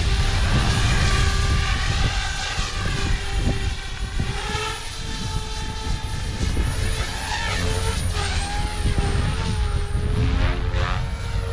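OMPHOBBY M4 electric RC helicopter in 3D flight, its motor and rotor whine rising and falling in pitch as it maneuvers, over heavy wind rumble on the microphone.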